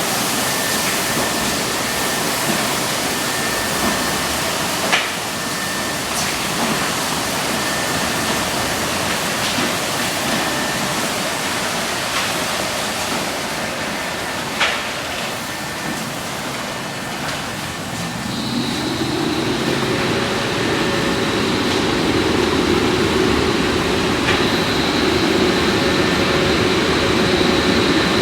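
Automatic car wash: a steady hiss of water spray on the car, with two sharp knocks, then about two-thirds of the way through the air-dryer blowers come on and run with a steady drone and a high whine.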